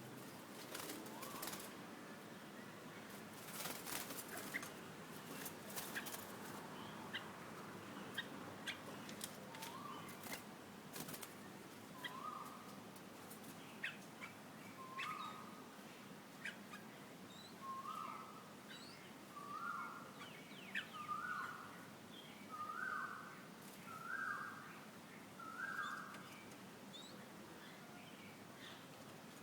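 Young red-whiskered bulbul giving a short call over and over, roughly every second and a half, growing louder toward the end. Sharp knocks and rustles come in the first several seconds before the calling starts.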